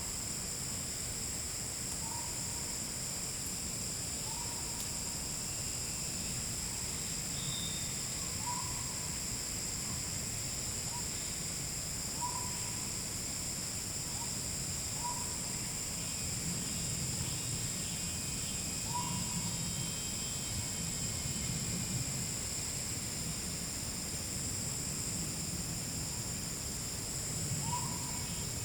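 Forest insects trilling steadily in several high-pitched layers, with short hooting notes from a calling animal repeating every two to four seconds under them.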